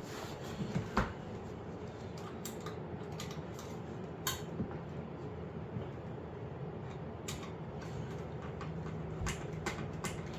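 Scattered light clicks and knocks from parts and a tool being handled while a dishwasher is reassembled, a few seconds apart, over a steady low background hum.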